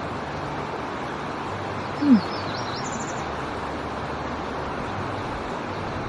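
A bird gives a brief run of faint, high twittering chirps a little after two seconds in, over a steady outdoor hiss. Just before the chirps there is a short, louder low note that falls in pitch.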